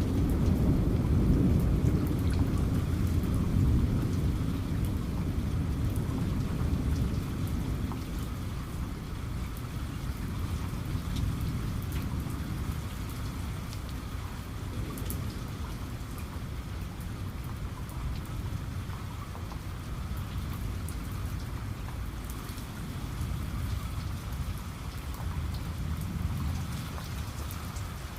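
Steady rain falling, with a long rolling rumble of thunder at the start that slowly dies away over the first several seconds, leaving the rain.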